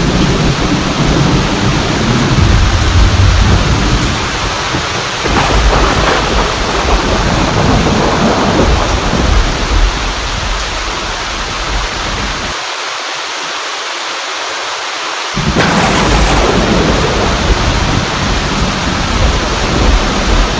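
Heavy rain falling steadily during a thunderstorm, with thunder rumbling low underneath. A fresh thunderclap breaks in about five seconds in and another about fifteen seconds in, just after the rumble briefly dies away.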